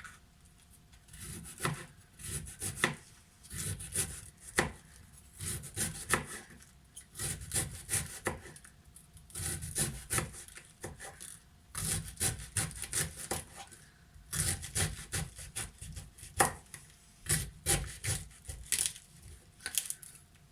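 Knife chopping red cabbage: runs of quick cutting strokes with short pauses between them.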